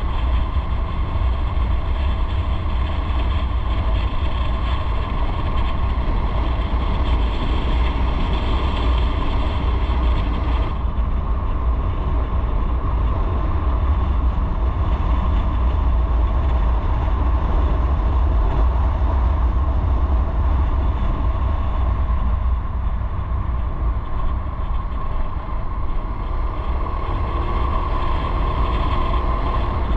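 Motorcycle on the move: steady engine drone under heavy wind rumble on the microphone. The upper hiss drops off about a third of the way in.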